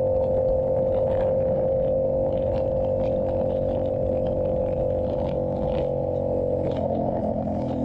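Yamaha YZF-R7's 689 cc parallel-twin engine running through an SC-Project exhaust at a steady cruising note, its pitch changing about seven seconds in.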